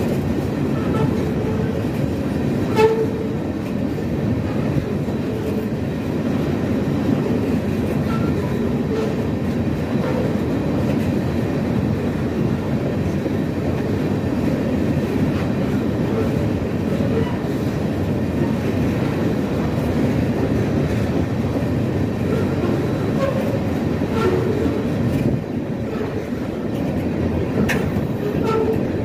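Freight train's open-top hopper cars rolling past at close range: a steady rumble of wheels on rail with scattered short squeaks and clicks, and one sharp clank about three seconds in.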